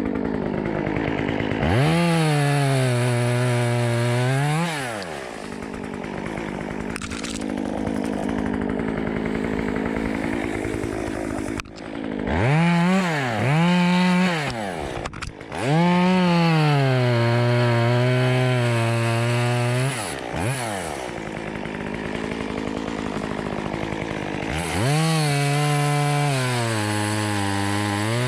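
Two-stroke chainsaw cutting up a fallen tree. The engine revs up to a high, steady pitch for a few seconds at a time, about four times, and drops back to a lower idle between cuts.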